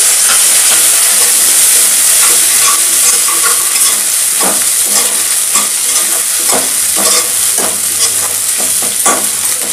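Oil sizzling in a kadai as chopped garlic, onion and green chillies fry, with a steady high hiss. From about halfway through, stirring strokes scrape and knock against the pan about twice a second.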